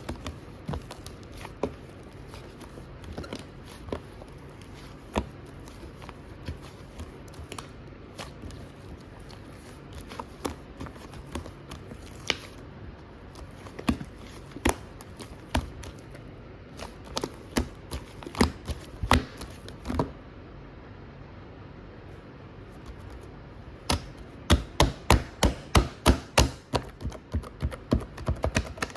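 Hands playing with a runny 'cheese fondue' slime: scattered sticky clicks and pops from air pockets as it is pressed and stretched, pausing briefly, then a rapid run of louder clicks near the end.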